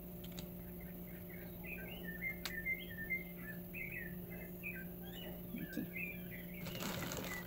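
Small birds chirping in quick, repeated short calls over a faint steady hum, with a brief rustle near the end.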